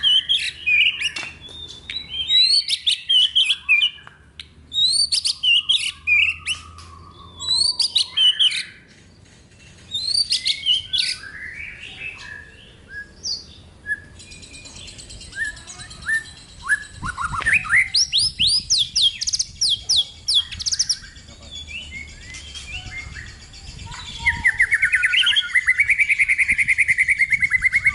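A songbird singing a varied song of short, rising whistled notes, breaking into a fast, even trill near the end.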